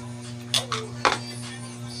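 Two or three short clinks and scrapes of eating utensils against a bowl, about half a second to a second in, over a steady low hum.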